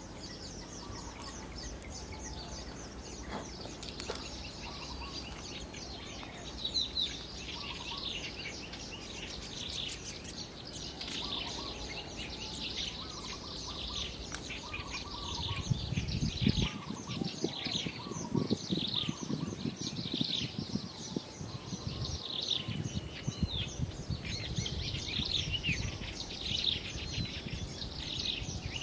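Small birds chirping and calling rapidly and continuously, several at once. From about halfway a low, fluttering rumble joins in.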